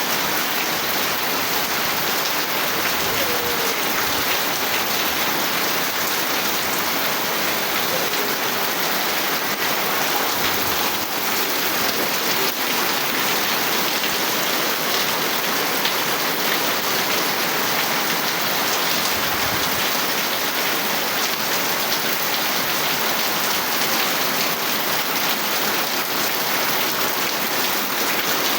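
Steady heavy rain falling, a dense even patter of drops on surfaces.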